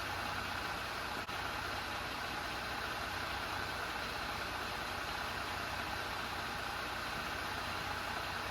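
2020 Jeep Gladiator's engine idling steadily.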